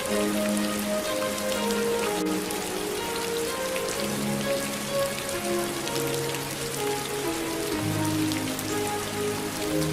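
Steady rain with scattered drop ticks, under a slow instrumental CCB hymn played in long held notes over a sustained bass line.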